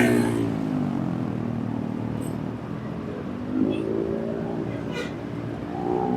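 A vehicle engine under way, its revs falling at the start, then rising again about halfway through and once more near the end, with a few faint clicks.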